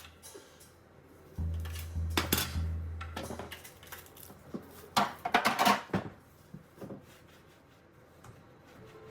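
Hard household items clinking and knocking as they are handled, in two bouts of clatter, the louder one about five seconds in. A low steady bass note of background music sounds under the first bout.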